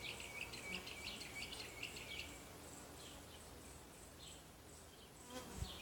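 A songbird chirping: a quick run of short high notes over the first two seconds, then a few scattered notes, faint above a steady low outdoor background.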